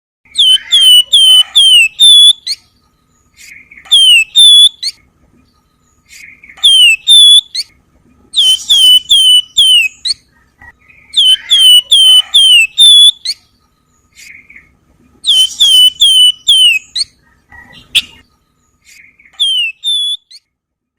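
Wergan Jawa (Javan fulvetta) singing its whistled 'nyiul' variation: phrases of four or five quick, sharply falling whistles, repeated every few seconds. A single sharp click about eighteen seconds in.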